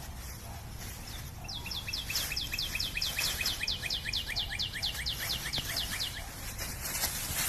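A bird calling: a fast, even run of short, high, down-slurred chirps, about five a second. It starts about a second and a half in and stops about six seconds in.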